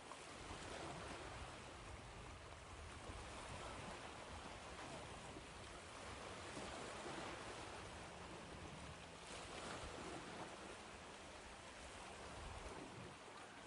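Ocean waves washing steadily, a soft continuous surf rising and falling in slow, gentle swells.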